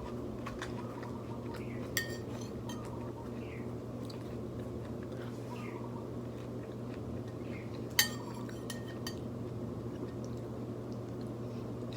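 A metal spoon clinking sharply against a plate twice, about two seconds in and again near eight seconds, over the steady hum of a fan.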